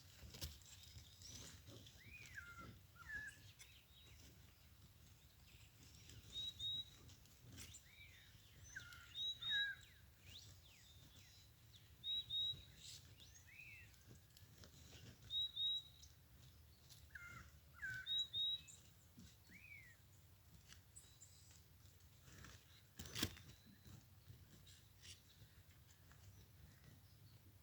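Small birds chirping faintly: a short high double note repeated about every three seconds, with other brief scattered chirps in between. A single sharp click sounds a little before the end.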